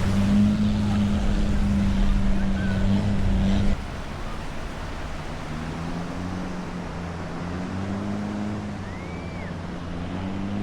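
An engine drones steadily over the wash of surf. About four seconds in, the sound drops abruptly to a quieter engine hum whose pitch slowly rises and falls.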